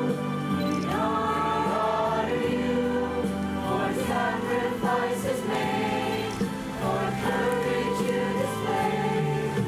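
High school chamber choir singing in parts, several voices holding long notes together.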